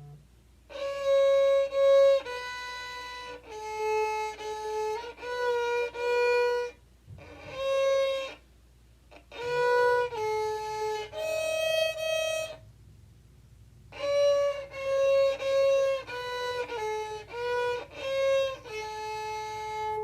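Solo violin playing a slow melody of held notes in short phrases, with brief pauses between them.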